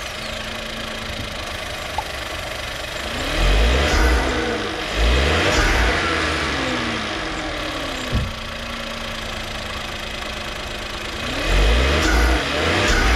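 Volkswagen Nivus 1.0 TSI turbocharged three-cylinder engine idling and revved in short blips: twice about four and five seconds in, with the revs then falling back to idle, and once more near the end.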